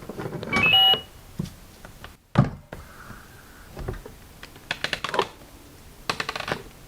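Electric rice cooker playing a short electronic chime of a few stepped tones about half a second in, signalling that its cooking cycle has finished. It is followed by a knock and a few bursts of clicking and rattling from handling.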